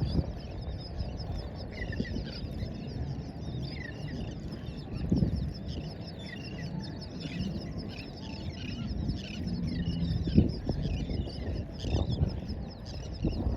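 A flock of birds calling in many short, quick chirps throughout, over a steady low rumble of wind and surf with a few brief thumps.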